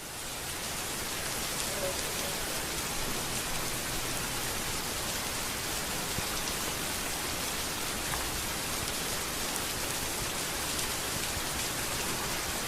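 Steady rain falling, an even hiss of drops with no thunder, fading in over the first second.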